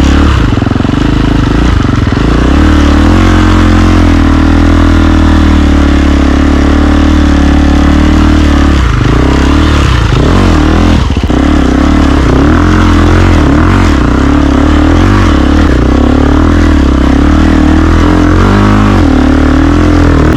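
KTM 350 EXC-F Six Days single-cylinder four-stroke motorcycle engine breathing through a full Akrapovic exhaust system, pulling under load while being ridden. The pitch rises and falls with throttle and gear changes, dipping and picking up again about halfway through and near the end.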